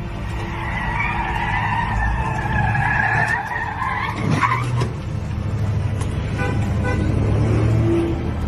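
Car tyres squealing in a skid for about three seconds, ending in a sharp knock about four seconds in, over a steady low vehicle hum.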